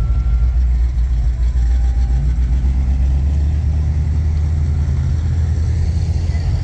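Rally cars and utes moving off slowly one after another close by, their engines running at low speed in a steady low rumble that swells in the middle as a ute passes.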